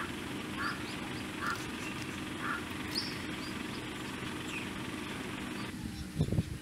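Short bird calls, repeated about once a second for the first few seconds, over steady background noise; a loud thump near the end.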